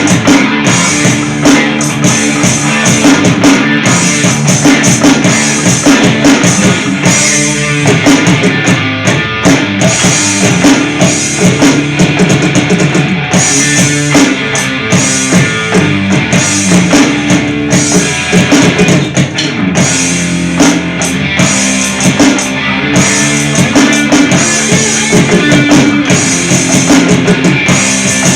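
Loud rock music with a full drum kit and electric guitar.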